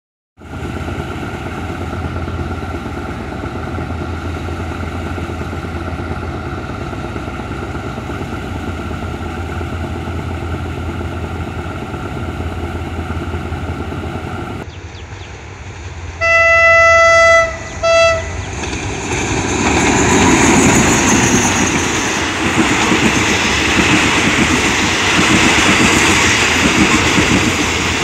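GE 4006 diesel-electric locomotive idling steadily. About halfway through, a locomotive horn gives one long blast and one short one, then a passenger train's wheels and coaches rumble past on the adjacent track.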